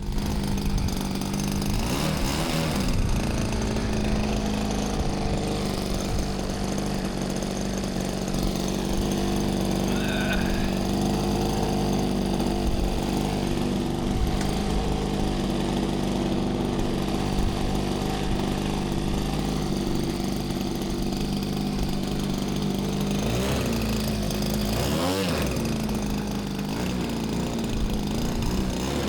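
Gas two-stroke engine of a large RC Piper Cub, a 26cc G26 swinging an 18x8 propeller, running steadily at low throttle. Its pitch wavers briefly a couple of seconds in and again near the end.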